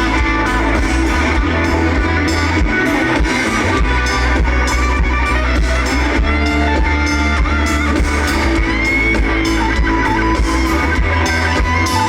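Live pop-rock band playing, with guitar leading over a steady drum kit and bass.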